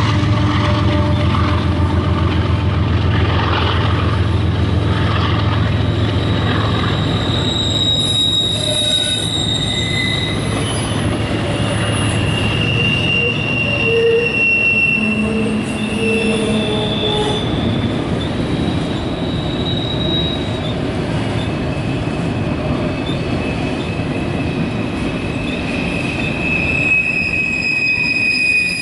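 Loaded autorack freight cars of a CSX train rolling past: a steady rumble of wheels on rail. A low drone fades out over the first dozen seconds, and from about eight seconds in the wheels squeal in long, high tones.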